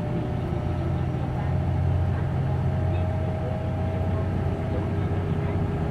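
Hino Blue Ribbon City Hybrid bus's diesel engine running under way, heard from inside the cabin, its drone swelling slightly in the middle. A thin steady higher tone sounds over it for a few seconds in the middle.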